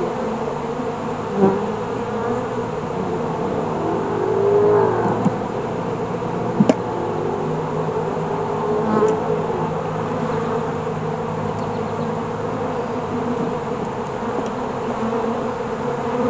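Honeybees buzzing around an opened hive: a steady hum, with single bees flying close past and their pitch bending up and down. A sharp click near the middle.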